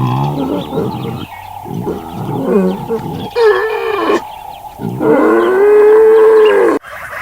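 A farm animal calling: several short, pitched cries that waver up and down, then one long, loud call that rises and falls. The sound cuts off suddenly near the end.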